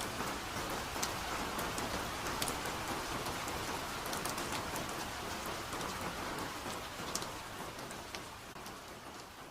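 Steady soft rain falling, individual drops ticking sharply over an even hiss. About two seconds before the end it begins to fade away.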